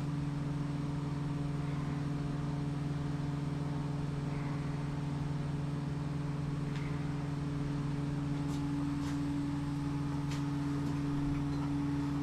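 A steady low machine hum in the workshop, with a few faint light clicks of small parts being handled as a washer is fitted back onto the outboard's water pump.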